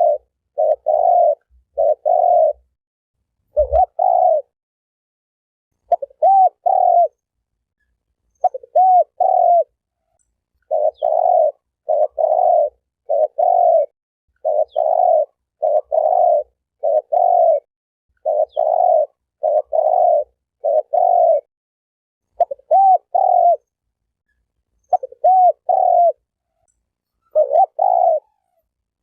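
Spotted dove (terkukur) cooing over and over, in short phrases of two or three coos with brief pauses between them.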